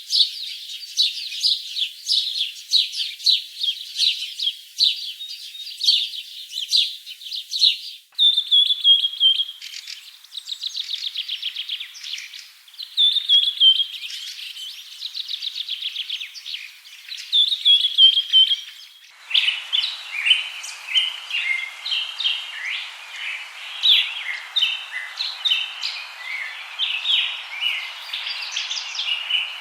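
Songbirds chirping and singing in quick, high-pitched phrases across three spliced recordings. First comes dense chirping. From about 8 seconds there are repeated falling phrases and rapid trills. From about 19 seconds the chirping continues over a steady background noise.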